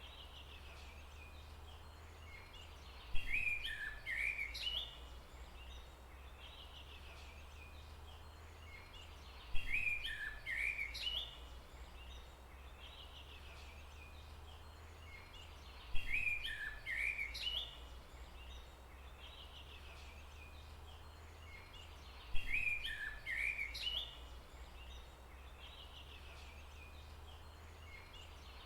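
Forest ambience with a songbird singing the same short chirping phrase about every six seconds, each starting with a sharp note, over a steady low rumble and faint chirps from other birds.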